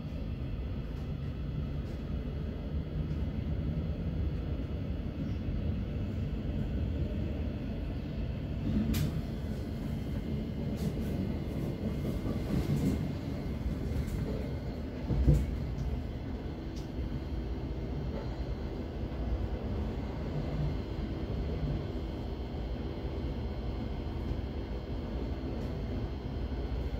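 Thameslink Class 700 electric train running between stations, heard from inside the carriage: a steady low rumble of wheels on rail, with a few short clicks and one sharp thump about fifteen seconds in.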